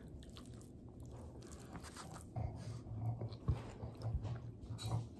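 A person chewing a mouthful of food close to the microphone; the first two seconds are quiet, then irregular soft clicks of chewing start.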